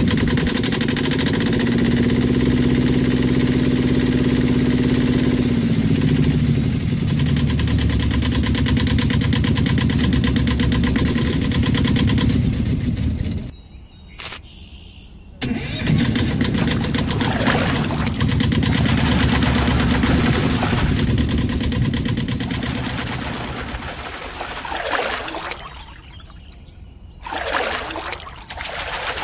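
A small engine running steadily, its pitch shifting in the first few seconds. It drops out for about two seconds midway, then runs again. Later there are several swishing sweeps, and the engine grows quieter near the end.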